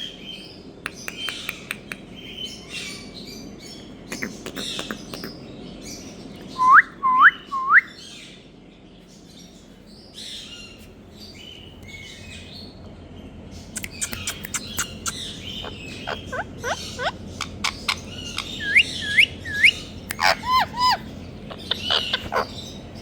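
Indian ringneck parakeet chirping and calling, with many short clicky chirps. Loud rising whistled calls come in threes about seven seconds in and again near the end.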